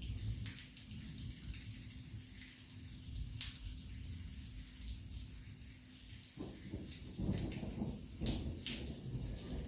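Heavy rain from a thunderstorm, a steady patter with sharp individual drop strikes over a low rumble. About six and a half seconds in, a rolling rumble of thunder builds and grows louder.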